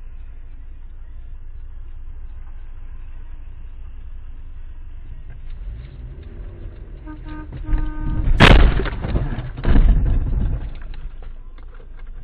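Car driving with a steady low road and engine rumble; a car horn sounds for about a second around seven seconds in, then a loud collision impact, with a second loud crash about a second later.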